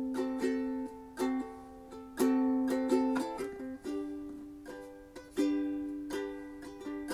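Background music: gently strummed plucked strings, ukulele-like, with chords decaying between strums.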